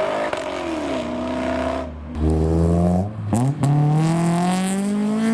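Honda VTEC car engine accelerating hard past, its note climbing, breaking briefly a little past three seconds as it shifts, then climbing again as the VTEC kicks in. Another car engine sounds before it.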